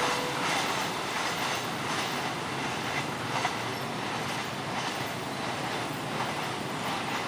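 Train passing over a level crossing: a steady rush of steel wheels on rails with a few faint clicks from the rail joints. The crossing's alternating two-tone electronic warning chime cuts off just after the start.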